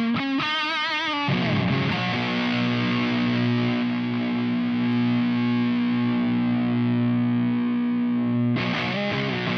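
Distorted electric guitar through an Ibanez Metal Charger distortion pedal: a quick lead lick with vibrato, then a chord left ringing for about seven seconds, then fast single notes again near the end.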